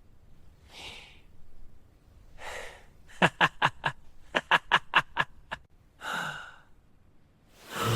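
A voice gasping and breathing, then a run of about eleven short laughing bursts in quick succession, ending with a breathy exhale.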